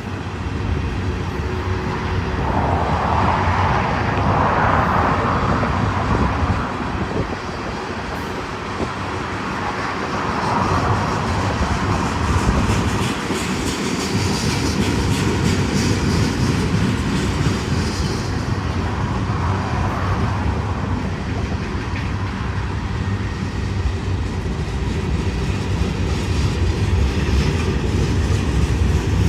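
Freight cars of a Union Pacific manifest train rolling past in a steady rumble, with the rapid clatter of wheels over the rails.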